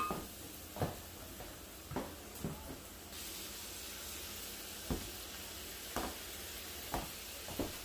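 Pork cubes, onion and garlic frying in rendered pork fat in a wok: a steady sizzle that gets louder about three seconds in, with a sharp pop every second or so.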